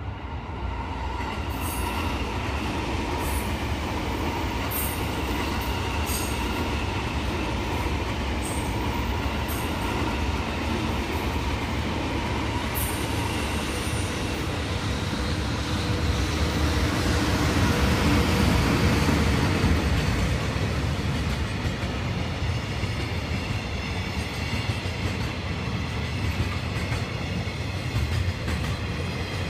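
Two electric trains passing each other: a 651 series 1000-subseries train and an EH500 electric locomotive hauling a freight train, a steady rolling rumble of wheels on rails with sharp clicks in the first half. The sound swells to its loudest about two-thirds of the way through and then eases off.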